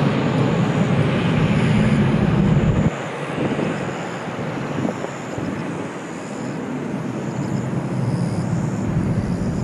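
Engine noise of a Boeing 777-300ER's two GE90-115B turbofans as the airliner comes in to land: a loud, steady rushing rumble. It drops abruptly about three seconds in, then carries on at a lower level.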